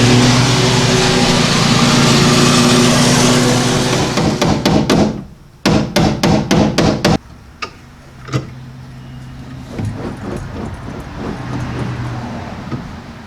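A heat gun blowing steadily for about four seconds, warming the paint on the quarter-panel lip so it won't crack when rolled. Then a quick run of about eight sharp metallic clicks, followed by a few scattered ticks.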